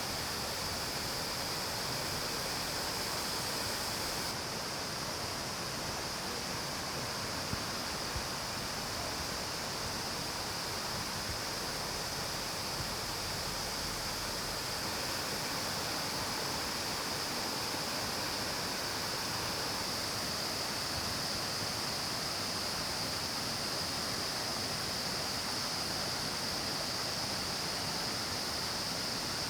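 Mountain stream water rushing steadily over rocks, an even hiss of flowing water.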